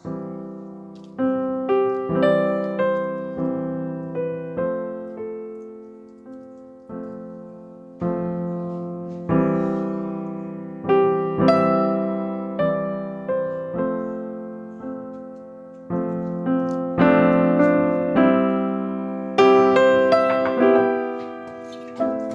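Solo piano music, slow chords and single notes that ring out and fade.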